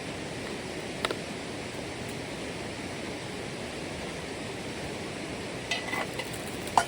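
A steady rushing noise, with a sharp click about a second in and a few light clinks near the end.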